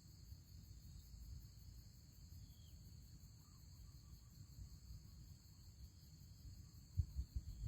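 Faint steady insect chorus held on two high pitches, over a low rumble, with a few knocks near the end.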